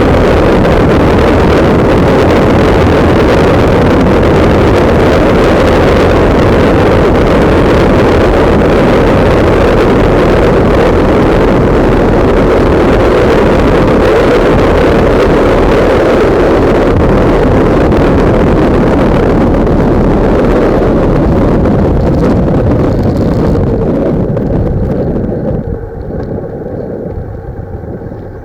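Heavy wind buffeting on the microphone of a camera mounted on a motorcycle at riding speed, a loud steady rumbling roar. It eases off over the last few seconds.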